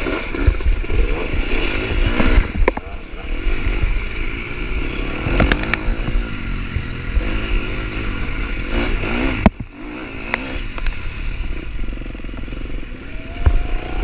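Four-stroke dirt bike engine revving up and down as it rides off over rough ground. A few sharp knocks are heard along the way, and the revs rise near the end.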